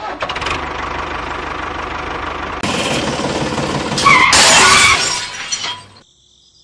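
Small toy DC motor driving a miniature chaff cutter, running with a fast buzzing rattle. It gets louder about two and a half seconds in, loudest and harshest around four to five seconds, then winds down and stops about a second before the end.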